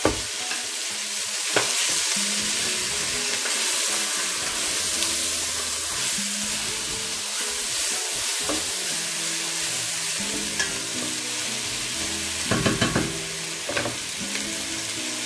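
Chopped onions and marinated chicken thighs sizzling steadily in hot oil in an enamelled cast-iron casserole while being stirred with a wooden spoon. There are a few knocks of the spoon against the pot, with a quick run of them near the end.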